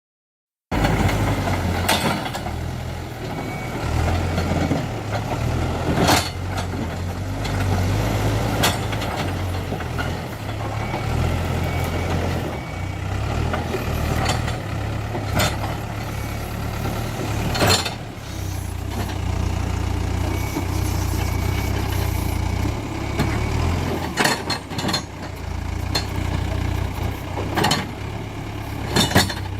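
Hidromek 102B backhoe loader's diesel engine running under varying load, with sharp knocks and clanks every few seconds from the steel bucket striking and scraping against rock.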